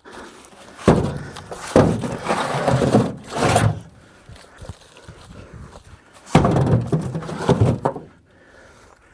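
Heavy wooden thuds of cut firewood rounds being thrown down and stacked, several knocks in two bunches with rustling between them.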